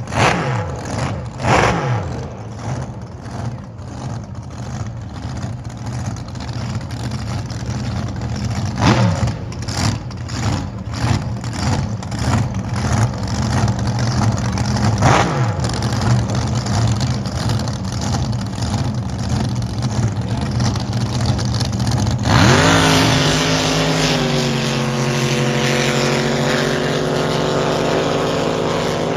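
Drag boat engines idling with a lumpy, uneven beat and a few quick throttle blips, then a sudden full-throttle launch about 22 seconds in, the engines held at a steady high pitch.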